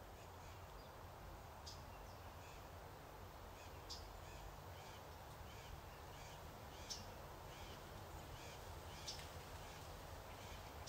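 Faint outdoor ambience: a bird gives four short, sharp high calls a couple of seconds apart, among softer chirps repeating every half second or so, over a steady low rumble.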